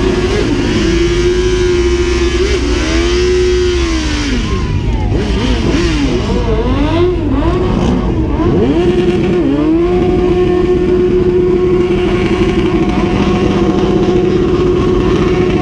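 Several dirt bike engines revving up and down over one another. One bike's engine holds a steady high pitch near the start and again through the second half.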